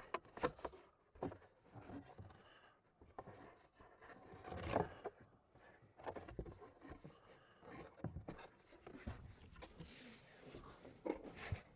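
Styrofoam board shade being handled and pressed into a truck window for a dry fit: irregular faint rubs, scrapes and light knocks, the loudest about five seconds in, with a short hissing scrape near the end.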